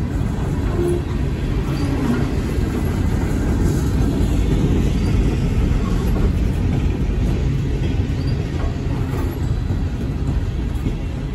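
Empty coal hopper cars of a freight train rolling past: a steady low rumble of steel wheels on the rails.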